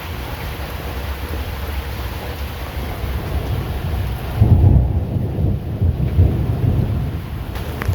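Steady rain hiss, then about four and a half seconds in a loud, low rumble of thunder from the storm that goes on to the end.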